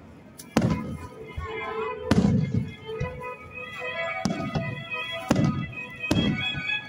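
Aerial firework shells bursting overhead: about five sharp bangs, each trailing off in a low rumbling echo, over music with sustained tones.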